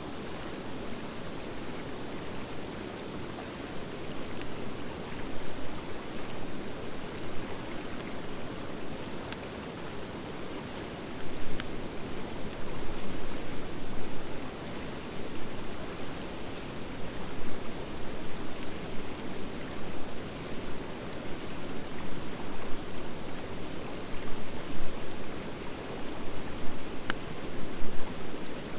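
Wood fire of driftwood and dry hardwood burning in a fire pit: a steady hiss of flames with scattered crackles and small pops, a sharper pop near the end.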